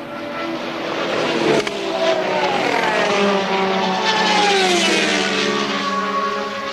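1983 Formula One race cars passing at speed. The engine note swells, is loudest about a second and a half in and again about four and a half seconds in, and falls in pitch as the cars go by before fading.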